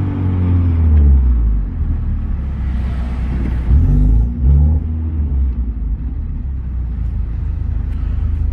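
Turbocharged 2.0-litre Theta four-cylinder engine of a Hyundai Genesis Coupe, with a built motor and Evo 9 turbo conversion, running under way with a low rumble. Engine pitch falls about a second in, and there are two short louder surges at around four seconds.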